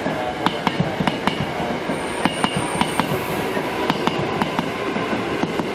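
Electric train running along the track, its wheels clicking and clanking irregularly over the rail joints over a steady rumble, with a brief high wheel squeal about two seconds in.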